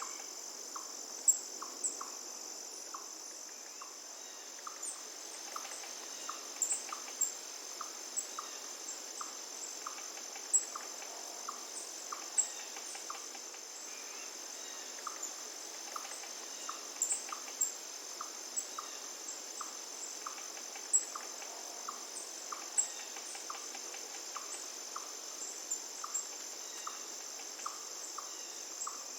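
Forest ambience: insects, crickets by the sound of it, trilling steadily and high over a faint even rush of flowing water. Short pips repeat about once or twice a second, and sharp high chirps come in at irregular moments as the loudest sounds.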